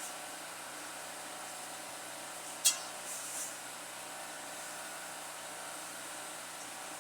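Steady hissing noise with one sharp click about two and a half seconds in, and brief bursts of higher hiss just after it.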